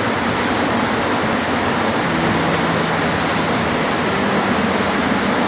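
Steady rain falling, a dense even hiss, with a faint low hum coming in about two seconds in.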